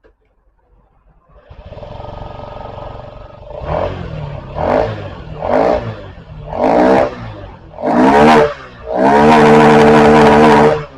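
Honda Dio Z4 scooter's 50cc four-stroke engine starting: it catches about a second and a half in and idles. It is then revved in five short blips, each rising and falling back to idle, before a longer rev held high for about two seconds near the end.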